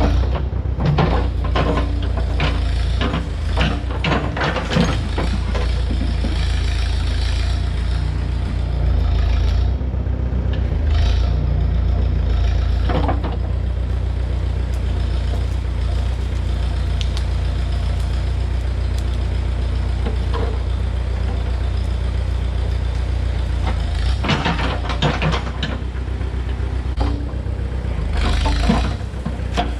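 Engine of a tracked digging machine running steadily, with bursts of metallic clanks and rattles from the machine at work, several near the start and more near the end.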